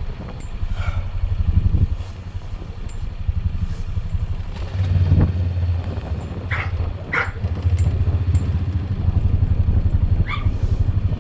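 Four-wheeler (ATV) engine running with a low, pulsing rumble, growing louder about five seconds in. A few short, high-pitched calls sound over it in the second half.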